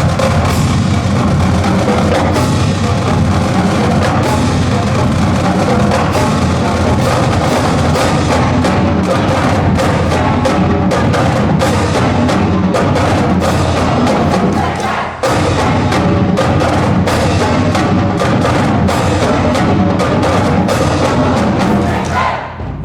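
Marching band drumline playing a cadence: snare, tenor and bass drums in fast, dense strokes, echoing in a gymnasium. The playing drops out for an instant about two-thirds of the way through and stops just at the end.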